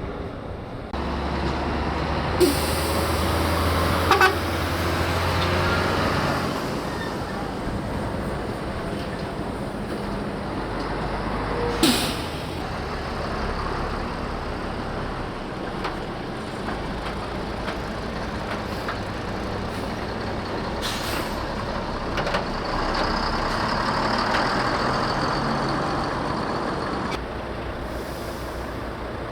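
Heavy trucks running and moving in a convoy, with a steady low engine drone and a few short, sharp air-brake hisses, the loudest about four and twelve seconds in.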